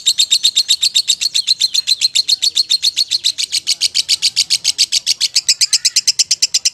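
Lovebird singing a long, unbroken run of rapid high chirps, about ten a second, without a pause. This is the drawn-out 'ngekek' chatter prized in Indonesian lovebird contests.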